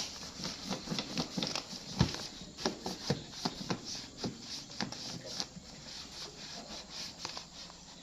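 Repeated rubbing strokes against a Honda PCX 125 scooter's bodywork during cleaning, a few strokes a second, getting fainter after about five seconds.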